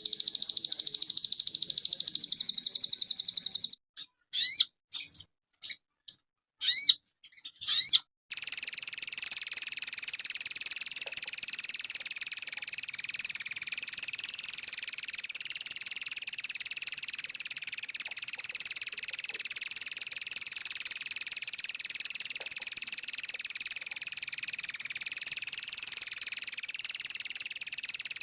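Sogon songbird song on a bird-training recording. It opens with a rapid, dense high trill, then comes a few seconds of short rising whistled notes with silent gaps between them. From about eight seconds in, a long, steady, high-pitched buzzing trill runs unbroken.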